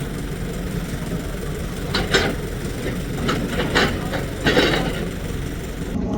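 Steady low engine rumble, as of a vehicle or machine running, with several short sharp noises over it from about two seconds in.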